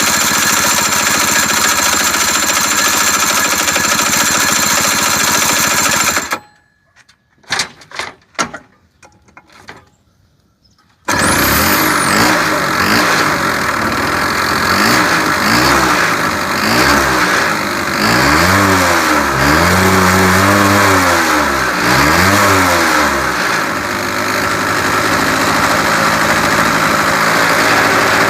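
Honda Leader AF03 scooter's two-stroke engine running, then cutting out about six seconds in, leaving a few clicks. It starts again about eleven seconds in, is revved up and down several times, and settles back to a steadier run.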